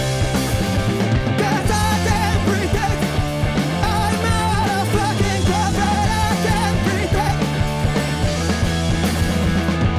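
Live rock band playing a loud, steady passage of a song, with sustained low bass notes under wavering lead lines.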